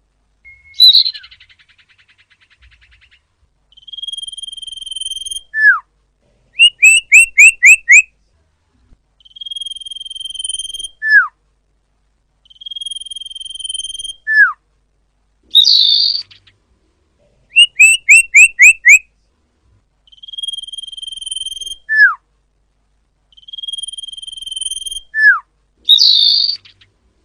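Common iora (cipoh) calls repeating in a cycle. A steady high trill of about two seconds is followed by a short downward-sliding whistle. Twice this gives way to a quick run of five sharp notes, and twice to a louder harsh call.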